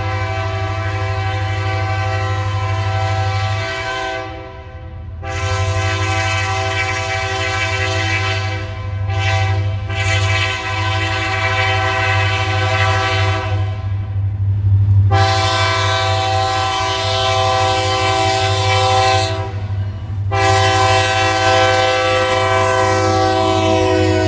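Diesel locomotive's air horn sounding a series of long blasts, about five with short breaks between, over the engine's steady low rumble. The horn's pitch drops near the end as the locomotive goes by.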